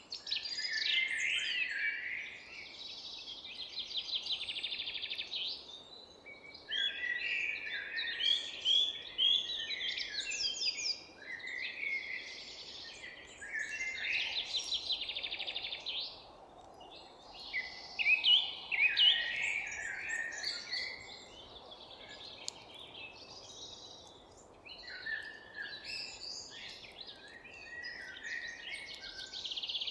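Several songbirds singing at once in a forest, an almost unbroken run of chirps, warbles and fast trills that rise and fall in bursts every second or two, over a faint background hiss.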